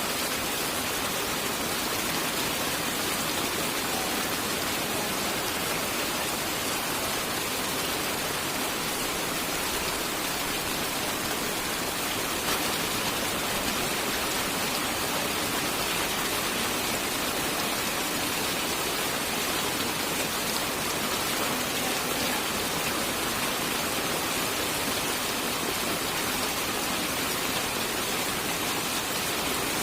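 Steady rain falling in an even hiss, with no thunder, and one brief tap a little before halfway.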